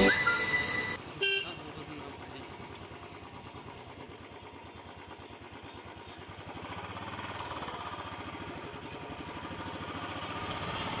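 Motorcycle engine running steadily as the bike is ridden, growing somewhat louder past the middle, with a short horn toot about a second in.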